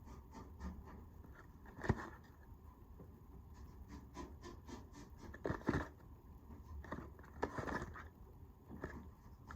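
Faint handling noises of small objects: scattered clicks and scrapes, with a sharp knock about two seconds in and busier scraping and clicking around the middle and near the end.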